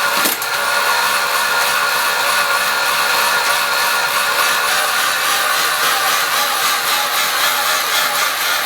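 Tacx Genius wheel-on bike trainer running at steady speed under a constant 200 watts, a steady whine of the tyre on the roller and the resistance unit. There is a short knock just after the start.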